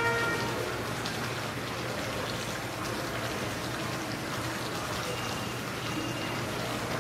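Hotel hall ambience: the steady splashing of an indoor fountain, with faint voices in the background.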